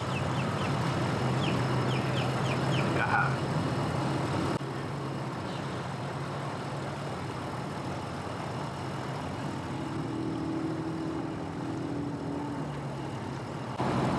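An engine idling steadily at a boat ramp, with a brief run of high chirps about two seconds in. Later, a slightly higher, steadier engine note comes and goes.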